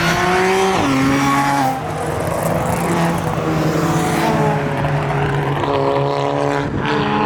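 Supercharged V6 sports car, taken for a Nissan 350Z with its VQ engine, revving hard and held at high revs while doing donuts, with tyres squealing. The engine note dips briefly about two seconds in and again near four seconds, then climbs back each time.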